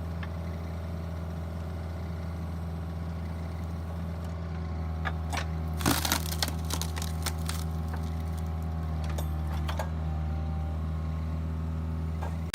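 Hydraulic log splitter running with a steady low hum; about six seconds in, a cluster of sharp cracks as a log splits apart, with a few more scattered cracks after.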